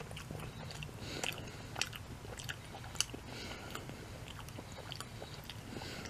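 A person chewing a bite of a breaded chicken nugget dipped in ketchup, close to the microphone: a run of short, wet mouth clicks and smacks.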